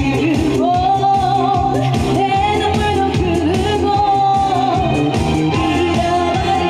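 Live trot song: a woman singing long, held notes with vibrato over pop backing music with a steady beat.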